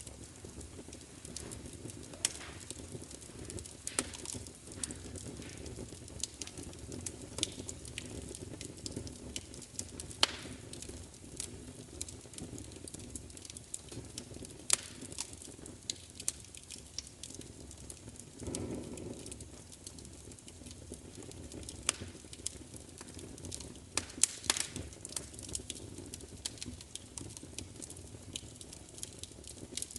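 Wood fire crackling, with irregular sharp pops and snaps over a steady low rumble of burning. A brief louder low whoosh comes about two-thirds of the way through.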